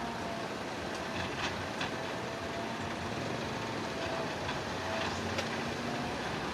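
Heavy construction machinery running steadily, with a faint whine and a few sharp knocks about a second in and again past five seconds.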